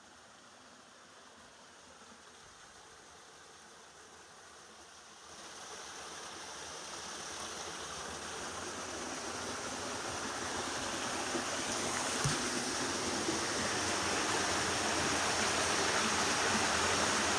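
Rushing water of a waterfall, an even noise that grows steadily louder, with a jump in level about five seconds in.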